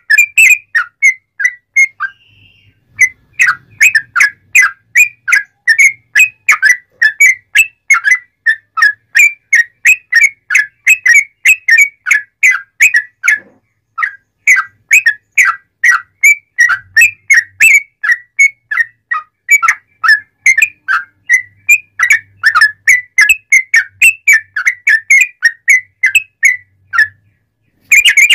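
Sooty-headed bulbul (trucuk) singing a loud, rapid run of short, clear whistled notes, about four a second, with brief breaks about two seconds in and halfway through.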